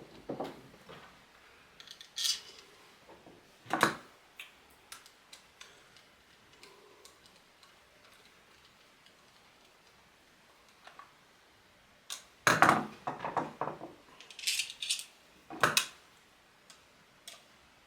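Scattered sharp metallic clicks and knocks from a Pedersoli Kentucky flintlock pistol being reassembled by hand, with a quick run of clinks and knocks about two-thirds of the way through.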